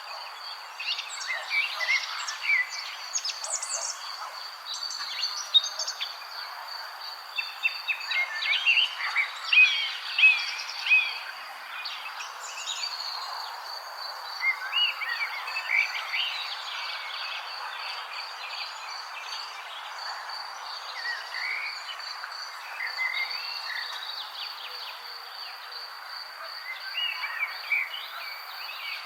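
Wild birds chirping in short, scattered bursts, busiest in the first half, over a steady high-pitched insect trill and a soft even hiss.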